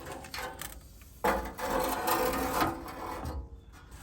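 Handling noises from work on a truck door: rustling and scraping with a few light knocks, loudest for about a second and a half starting just over a second in.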